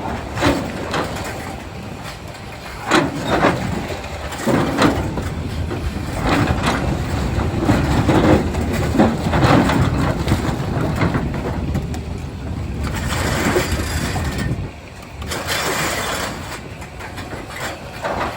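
Doosan DX390 excavator running under load, its diesel engine a steady low rumble, with irregular knocks and scraping of rock against the steel bucket. The engine drops off briefly about three quarters of the way through.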